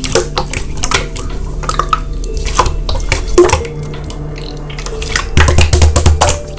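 Slime being squished and pressed, making many irregular wet clicks and pops, over soft background music.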